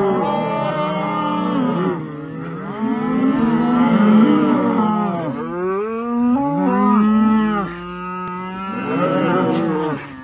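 Cattle mooing: a run of long calls that rise and fall in pitch, several overlapping, with short lulls at about two seconds and near eight seconds.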